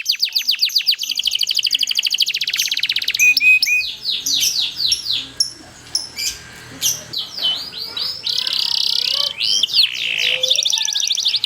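Domestic canary singing a fast, varied song: rapid runs of repeated downward-sweeping high notes and quick trills (rolls), a quieter stretch about halfway, then a buzzy roll near the end.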